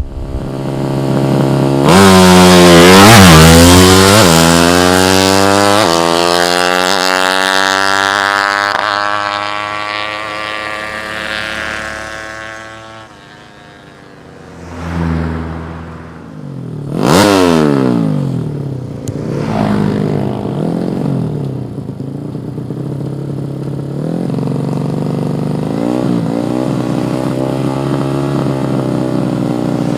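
Racing motorcycle engine at high revs passing close, its pitch falling steadily as it goes away. A second quick pass comes about 17 seconds in, then an engine runs at a fairly steady speed.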